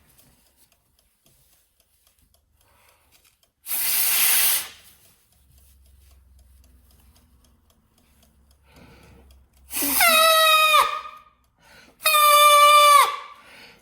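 Sounds made with a jacket: a short rushing hiss about four seconds in, then two held pitched tones near the end, each sliding down in pitch as it stops.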